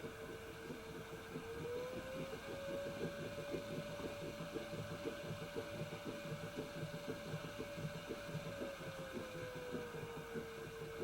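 Hoover H-Wash 300 Plus washing machine running, its motor whine rising in pitch about two seconds in as the drum speeds up, holding, then falling back near the end, over a rapid low churning from the turning drum.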